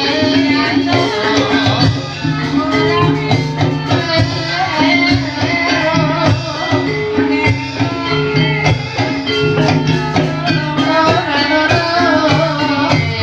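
Live Javanese gamelan music playing continuously for an ebeg horse dance: held pitched tones and a melodic line over a steady percussion beat.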